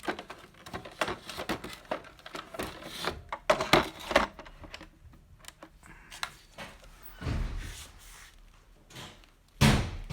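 Hard plastic parts being handled: a quick run of clicks and knocks, then a dull thud and, near the end, a louder thump.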